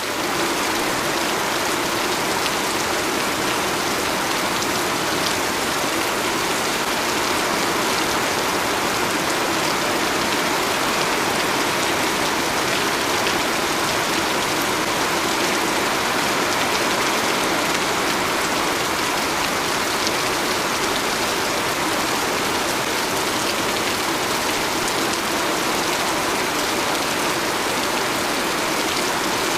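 Very heavy rain pouring down in a steady, unbroken downpour, a dense even hiss with no let-up.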